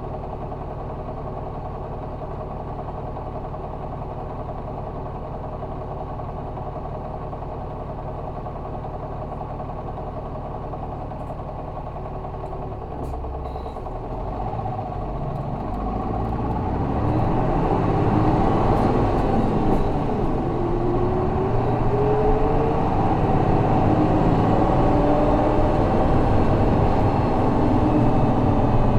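Isuzu Erga city bus's 6HK1 inline-six turbo-diesel idling steadily, heard from inside the cabin. About halfway through the bus pulls away and the engine note climbs and falls again several times as it accelerates through the gears, held to high revs.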